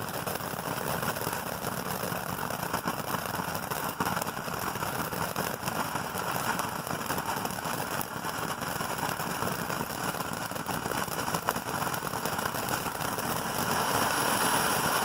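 Beach Party fountain firework burning: a steady spraying hiss thick with fine crackle, a little louder near the end.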